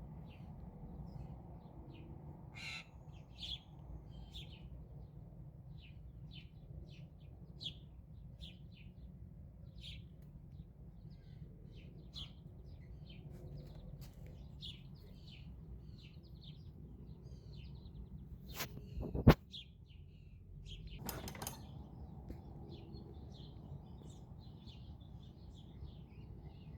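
Birds chirping, short high calls repeating every second or so, over a steady low rumble. A sharp knock about 19 seconds in.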